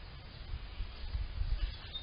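Wind buffeting the microphone, a low rumble that swells about halfway through, with faint birdsong in the background.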